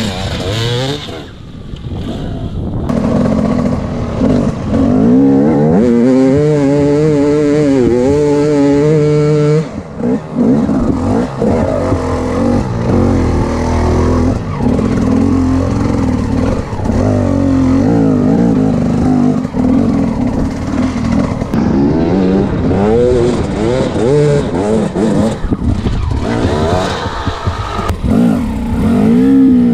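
Enduro dirt bike engines revving, the pitch climbing and dropping again and again as the throttle is worked, with a steadier high-rev stretch about six to ten seconds in.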